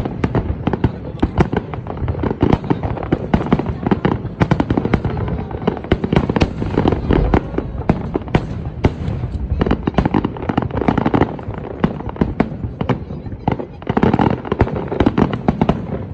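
Fireworks display: a dense, continuous run of booms and crackling bursts, many per second, with no pause.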